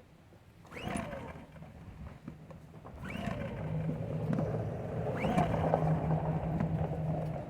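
Recoil pull-starter of a Champion 2000 W inverter generator being yanked three times, about two seconds apart, each pull a quick rising-and-falling whir as the engine cranks over on propane without catching. A steady low hum and rougher noise run through the second half, loudest around the third pull.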